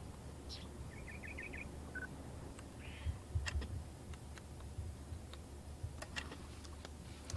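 A quick series of about six faint high bird chirps a second in and one short high note shortly after, over a steady low hum, with a few sharp clicks scattered through.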